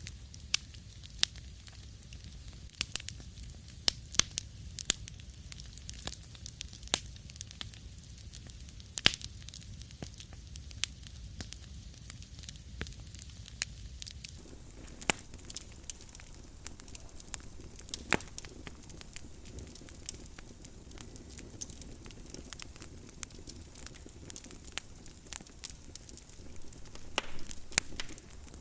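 Wood fire in a fireplace crackling, with sharp pops at irregular moments over a soft background hiss that grows fuller about halfway through.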